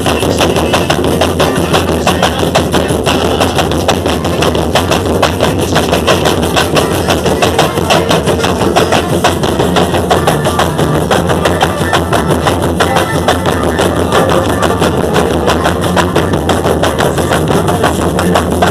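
Bloco tradicional percussion band playing, a loud, dense and steady drum rhythm with other percussion, without a break.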